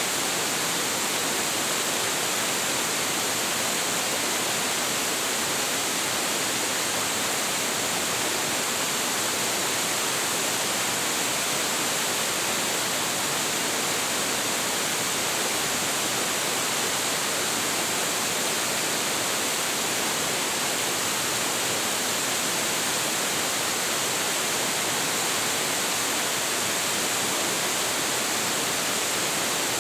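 Hiji Falls, a 25.7 m waterfall with a heavy flow, pouring steadily: a constant, even rush of falling water that does not rise, fall or break.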